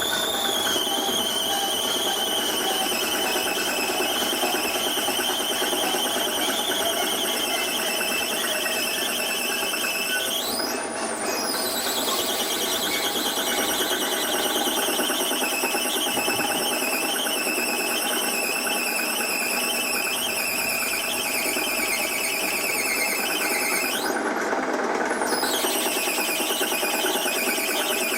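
Drill bit squealing steadily as it cuts into a hard metal ball that drills poorly, harder than the brass it was supposed to be. The squeal's pitch shoots up sharply twice, about eleven seconds in and near the end.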